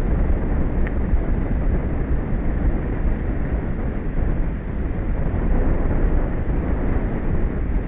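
Wind buffeting an outdoor microphone: a steady, loud, low rumbling rush with no distinct events.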